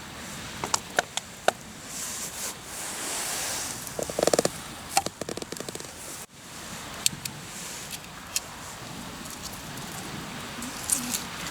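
Hardwood campfire crackling, with scattered sharp pops over a steady hiss and a quick run of snaps about four seconds in.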